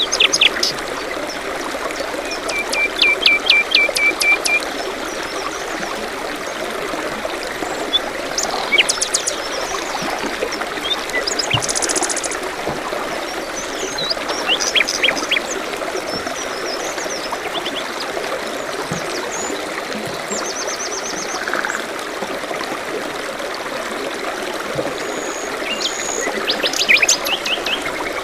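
Steady trickling of a forest stream, with several songbirds calling over it: a quick run of repeated short notes about three seconds in, and scattered chirps and trills after it.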